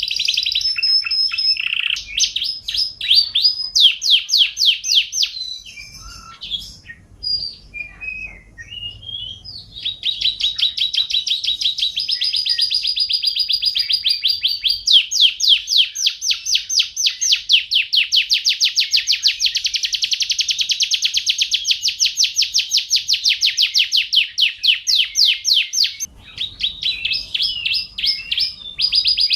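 Domestic canary singing: long, rapid trills of quickly repeated notes, broken by a quieter stretch of scattered single notes about six seconds in, then fast trilling again with a brief pause near the end.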